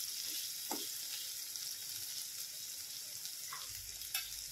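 Cooked spiny gourd (kartule) pieces sizzling softly in a kadai, with a few light clicks of the spatula against the pan and one sharper click near the end.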